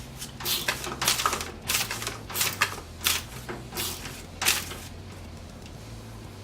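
A run of irregular clicks, knocks and short scrapes from computer case parts being handled and fitted together, about ten in a few seconds and then quieter near the end.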